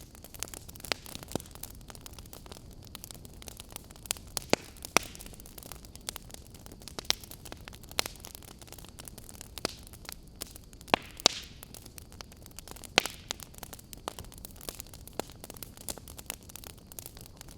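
Wood fire crackling in a fireplace: irregular sharp pops and snaps over a soft steady hiss, with a few louder pops scattered through.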